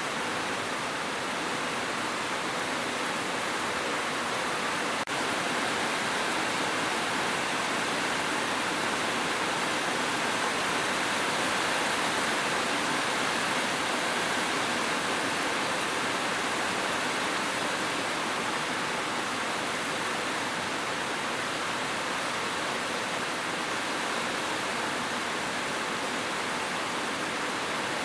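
Steady, unbroken rain hiss with no individual drops standing out. There is a single faint click about five seconds in.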